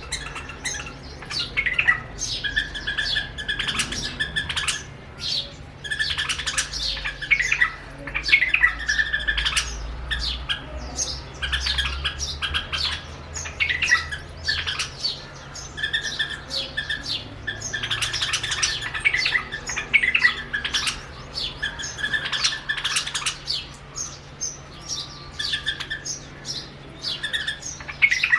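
A pair of white-eared bulbuls singing, a dense run of short, rapid call phrases repeated over and over, in a song contest with their own reflection in a mirror.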